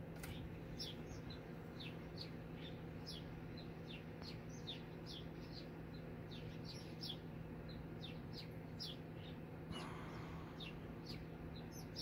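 A small bird chirping again and again, short high falling chirps a few times a second, over a steady low hum. A brief rustle about ten seconds in.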